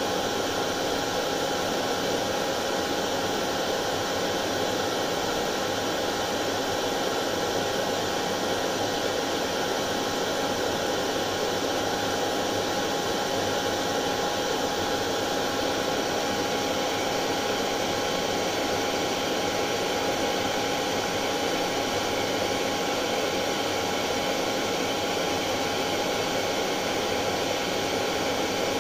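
Hair dryer running continuously: a steady, unchanging whoosh of blown air with a faint motor hum.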